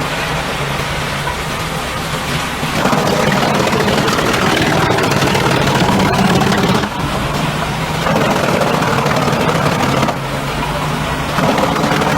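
Heizohack drum wood chipper running, its engine drone steady, with three louder stretches of dense grinding and crackling as wood is fed through and shredded: about three seconds in, again around eight seconds, and near the end.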